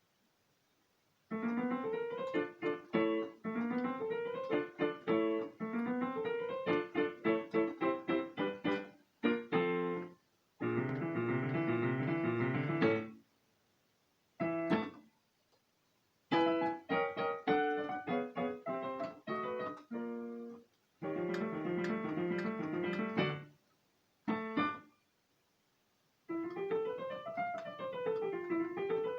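Piano playing in stop-start phrases, breaking off into silence several times. Near the end comes a run of notes that rises and falls back.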